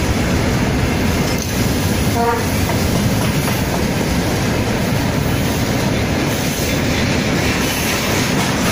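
A moving train's steady rumble of wheels and track, heard from on board. A short pitched tone sounds about two seconds in.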